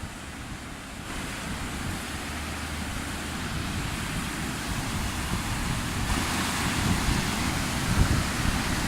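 Rushing water of a swollen river in spate after a typhoon: a steady hiss of fast-flowing water that grows a little louder, with wind rumbling on the microphone underneath.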